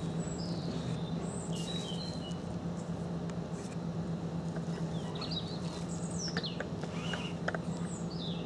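Small birds chirping and calling in short, scattered notes, more of them in the second half, over a steady low hum and outdoor background noise.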